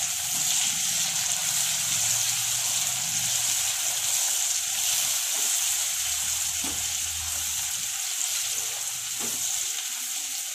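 Onions and chopped tomatoes sizzling in hot oil in a nonstick kadai while being stirred with a silicone spatula: a steady high-pitched hiss with a few soft spatula strokes. The tomatoes are frying down with salt to make the gravy base.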